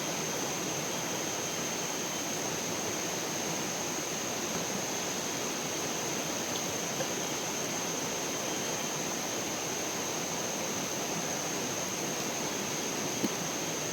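Steady rushing of flowing water, with a thin, steady high whine over it and a faint click or two near the end.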